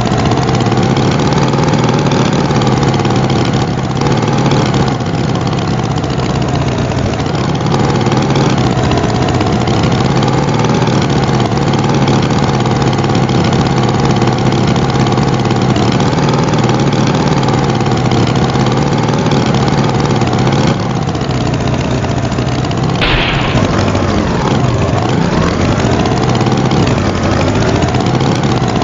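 Tractor engine sound effect running steadily with a slight wobble in pitch. About three-quarters of the way through the sound changes and the pitch dips and rises again, like the engine easing off and revving back up.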